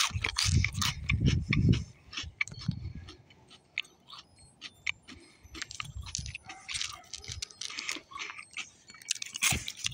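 Someone chewing crunchy mini pancake cereal: a run of dry crunching crackles, heaviest in the first two seconds and thinning to scattered clicks after.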